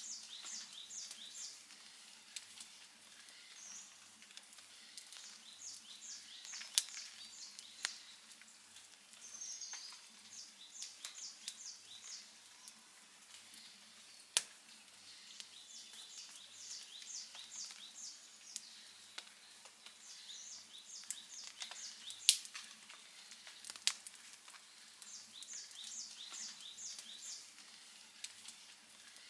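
Campfire crackling softly with scattered ticks and a few sharp pops. A bird repeats a short, rapid phrase of high chirps about every five seconds.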